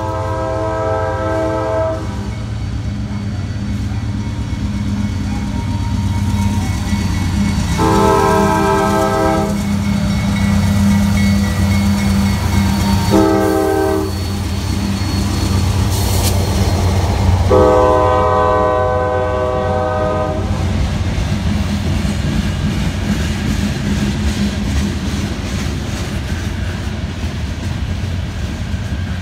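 CSX freight locomotive sounding its multi-note air horn in the grade-crossing pattern, long, long, short, long, over the steady low rumble of its diesel engine. After the horn, freight cars roll past with a steady rumbling clatter of wheels on rail.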